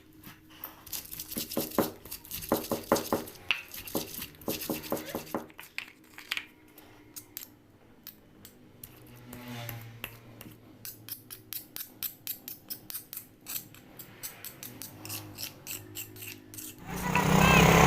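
Irregular clicking and scraping, like hand tools or utensils being worked, in two busy stretches with a quieter gap between. A loud steady rushing noise starts near the end.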